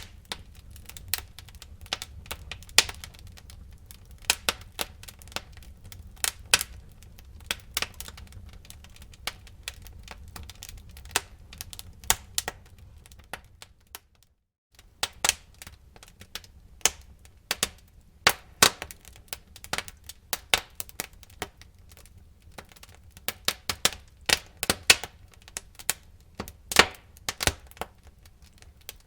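Wood fire burning in a fireplace: frequent irregular sharp cracks and pops over a low steady rumble of the flames. The sound cuts out completely for about half a second midway, then the crackling resumes.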